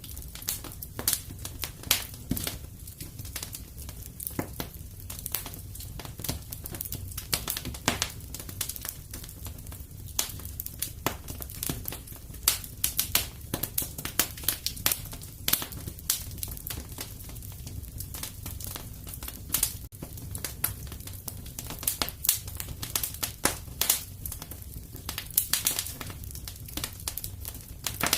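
Wood fire in a fireplace crackling, with irregular sharp pops and snaps, several a second, over a steady low rumble of the flames.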